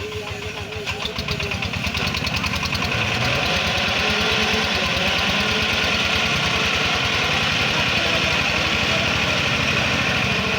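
An engine running with a rapid, even firing beat, growing louder over the first three seconds and then holding steady.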